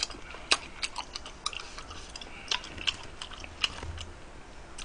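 A man chewing a mouthful of tteokbokki rice cakes, with scattered small wet mouth clicks and a few sharper clicks.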